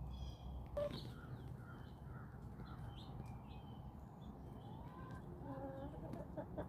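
Backyard chickens and wild birds calling: a short harsh call about a second in, scattered high chirps, and clucking calls from the hens in the second half, over a steady low rumble.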